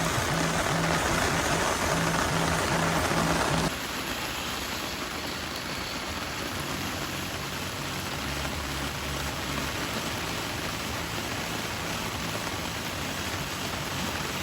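Rain falling steadily, a dense hiss. About three and a half seconds in it drops suddenly to a quieter stretch of rain.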